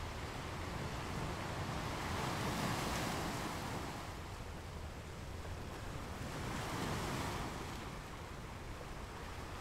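Steady rushing ambience of wind and surf that swells twice, first about two to three and a half seconds in and again around seven seconds.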